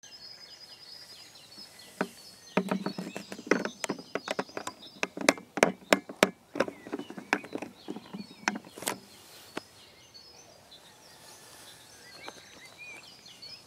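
Songbirds singing, with repeated high chirps and short whistled phrases. From about two seconds in until nearly ten seconds, a run of loud, irregular sharp clicks and knocks close to the microphone.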